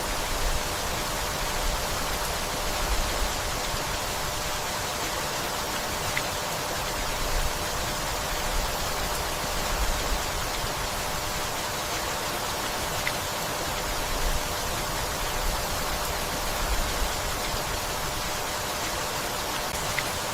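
Steady rain falling, an even hiss with small low swells in loudness now and then.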